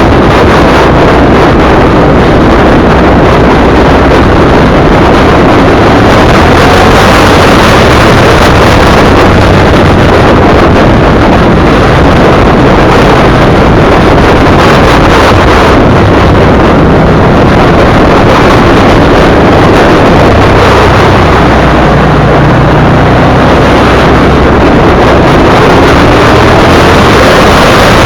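V-twin sport motorcycle being ridden at speed, its engine running under heavy, loud wind rush on the microphone, with the engine note rising and falling a few times.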